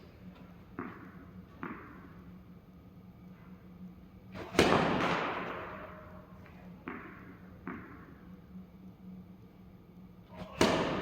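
Tennis balls being struck by rackets and bouncing on the court during play: a series of sharp pops, the loudest about four and a half seconds in and another near the end, each trailing off in an echo.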